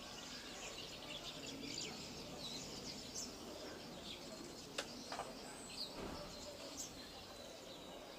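Several small birds chirping in short, quick calls over a steady outdoor background hiss, with one sharp click about five seconds in.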